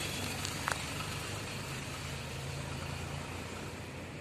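A vehicle engine idling with a steady low hum, and one short click about two-thirds of a second in.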